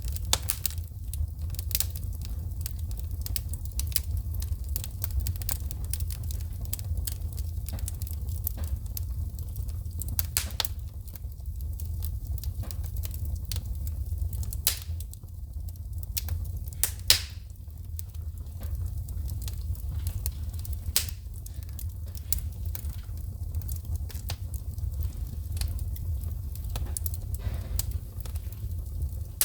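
Wood fire in a fireplace crackling and popping, with irregular sharp snaps of sparks shooting from the burning logs and one louder pop about 17 seconds in, over a steady low rumble of the flames.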